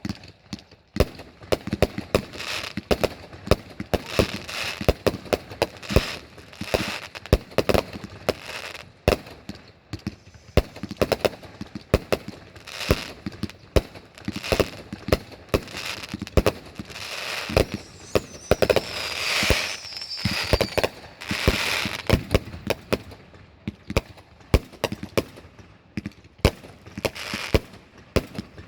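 Fireworks going off in a dense, continuous string of sharp bangs and pops with crackling between them. A falling whistle is heard a little past the middle.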